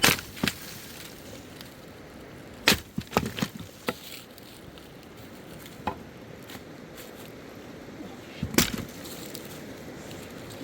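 Firewood being chopped: irregular sharp wooden blows, with a quick cluster of several about three seconds in and another pair near the end.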